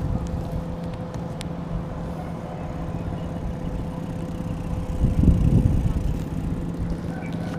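An engine running steadily with a low hum, swelling louder for about a second around five seconds in.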